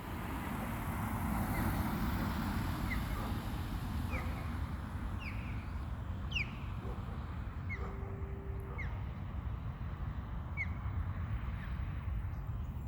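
Two ospreys calling back and forth: a series of short, high, whistled chirps, about one a second. A steady low rumble runs underneath.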